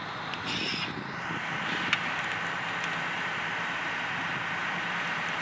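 A vehicle engine running steadily with a thin, steady whine over it, and one sharp click about two seconds in.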